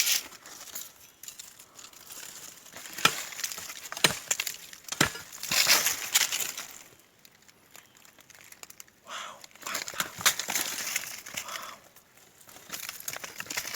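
Dry material being pried and broken apart: irregular crunching and crackling, with three sharp snaps about a second apart early in the middle.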